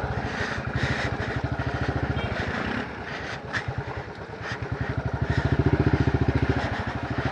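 Motorcycle engine running with a fast, even firing beat. It eases off about three seconds in and builds again a couple of seconds later.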